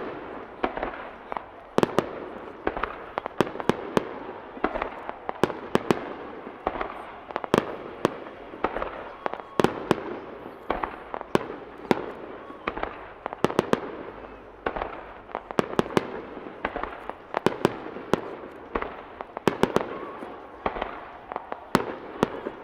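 Aerial firework shells bursting in rapid, irregular succession, several sharp bangs a second over a continuous dense wash of sound from the display.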